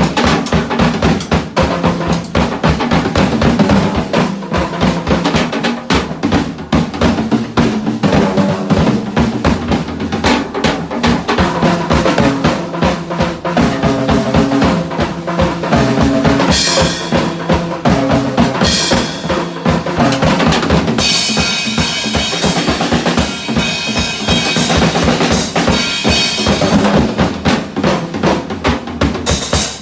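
Music driven by a drum kit: a fast, steady beat of bass drum and snare over a moving low bass line. Cymbal splashes come in twice past the middle, followed by a longer run of cymbals near the end.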